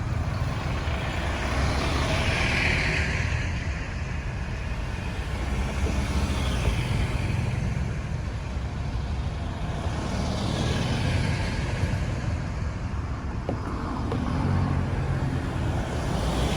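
Busy road traffic: a steady low engine rumble, with passing vehicles swelling and fading about every four seconds.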